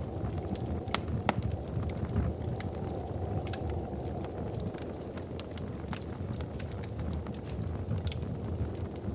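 Wood fire burning in a fireplace: a steady low rumble of flames with frequent, irregular crackles and pops. A few sharper pops come about a second in and again near the end.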